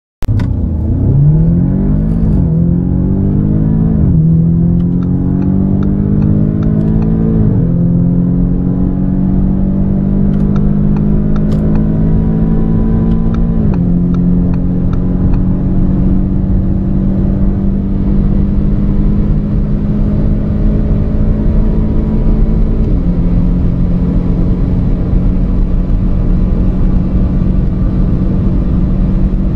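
Car engine accelerating hard from a standstill through the gears. The pitch climbs in each gear and drops at each of five upshifts, and each gear runs longer than the last as speed builds.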